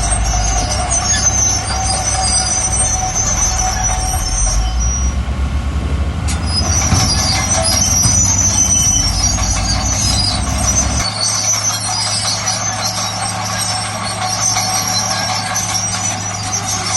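Heavy diesel construction machinery running, with a high metallic squeal over a deep engine rumble. About two-thirds of the way through the deep rumble drops away, leaving a steady engine hum.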